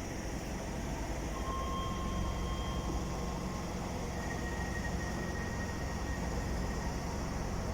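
An electric passenger train running through the station with a steady rumble. Faint high-pitched tones come and go twice, a second or two each.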